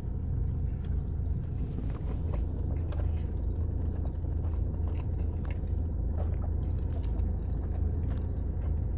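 People biting into and chewing a burrito, with scattered small wet clicks and smacks of mouths at work, over a steady low rumble.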